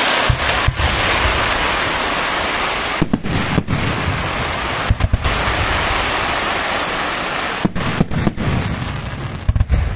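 Fireworks going off: a dense, continuous crackle with sharp bangs scattered through it, fading toward the end.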